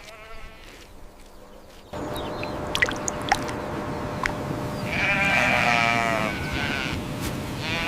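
Sheep bleating: a faint short bleat near the start, then one long wavering bleat about five seconds in, and another beginning at the very end. An outdoor hiss comes up about two seconds in, with a few sharp clicks.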